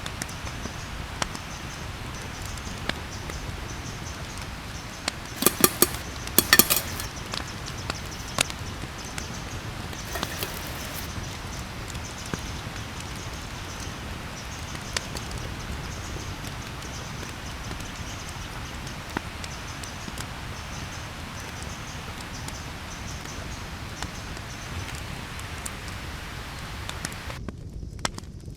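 Campfire crackling: a steady hiss with scattered sharp pops, and a cluster of louder snaps about five to seven seconds in and again around ten seconds.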